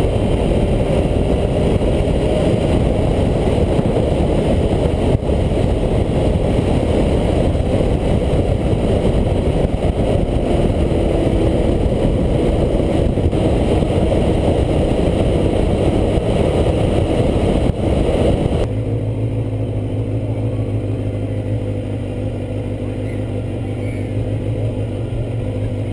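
Honda CBR250RR's 250cc inline-four engine running hard at high speed under a dense rush of wind noise. About three quarters of the way through, the rush cuts off abruptly, leaving a quieter, steady engine note.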